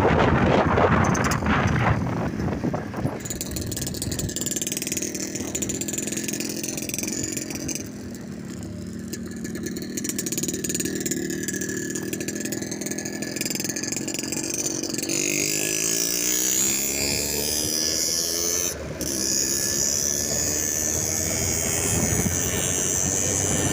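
Motorcycle engine running as it is ridden, with its pitch rising steadily from about fifteen seconds in and a brief drop just before nineteen seconds, like a gear change. Wind noise on the microphone over the first few seconds.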